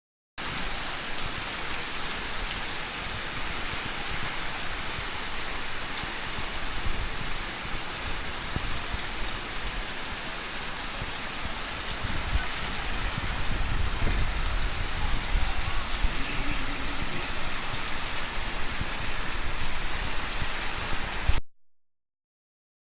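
Rain falling steadily in a continuous hiss, growing a little louder about halfway through. The sound starts abruptly just after the start and cuts off suddenly near the end.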